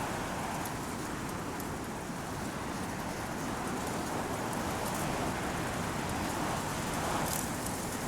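Strong, steady wind blowing through Teide broom bushes (retama), their stiff branches and leaves rustling, with a few faint clicks.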